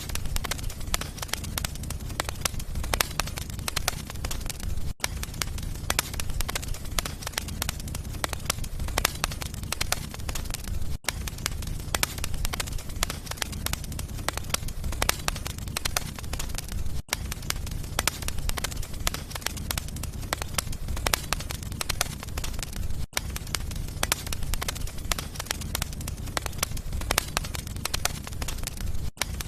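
Wood fire crackling in a fireplace: dense, irregular crackles and pops over a steady low rumble of the flames, with a brief dropout about every six seconds.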